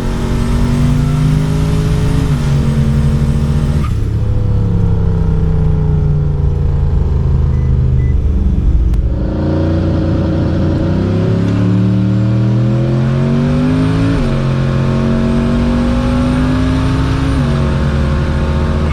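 Turbocharged LS V8 drag car running hard under boost. The engine pitch climbs and then drops sharply several times, as at gear changes, with a stretch where it winds down.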